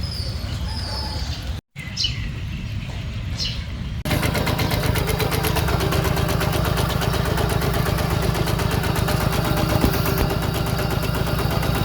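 Small Yanmar diesel engine of a home-built power tiller running steadily. The sound breaks off for an instant under two seconds in, and about four seconds in it gets louder and fuller.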